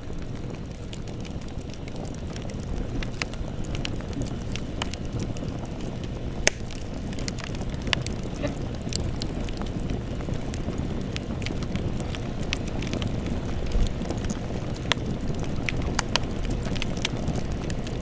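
Wood campfire burning: a steady low rush of flames with scattered sharp crackles and pops, a few of them louder than the rest.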